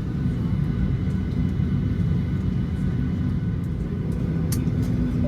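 Steady low rumble and hiss inside the cabin of a Boeing 737-800 on the ground, the air-conditioning and aircraft systems running. A faint click sounds about four and a half seconds in.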